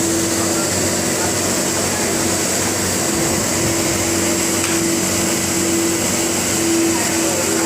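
Wet-and-dry vacuum cleaner running steadily: a constant motor tone over an even hiss of air.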